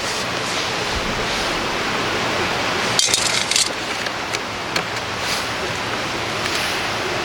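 River water flowing steadily. A short cluster of sharp clicks comes about three seconds in, followed by a few single ticks.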